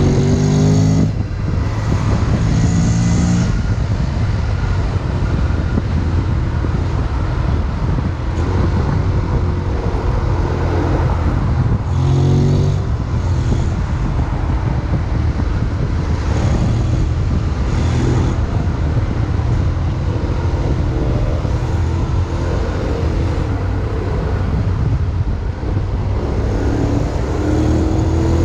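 Honda X-ADV 750 riding in city traffic: its 745 cc parallel-twin engine running under a steady rush of wind and road noise, with a few short rising engine notes as it speeds up.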